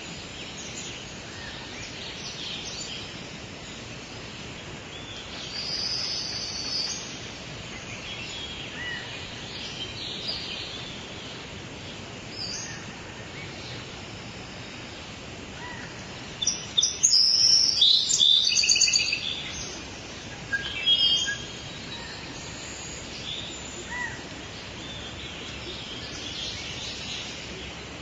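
Outdoor nature ambience of several small birds chirping and singing over a steady background hiss, with a louder, busier burst of rapid chirps around the middle.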